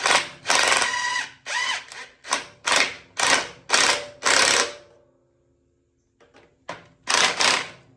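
Impact gun hammering in a run of short bursts, trigger pulled again and again through the first four and a half seconds, then once more near the end, running down the nuts on a tractor's cylinder head.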